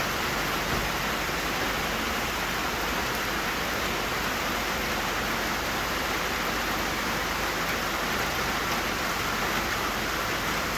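Steady heavy rain drumming on a tin roof, an even, unbroken hiss of drops.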